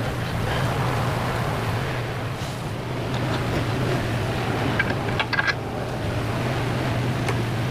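Steady low mechanical hum under a constant haze of noise, with a few short light clicks a little past halfway.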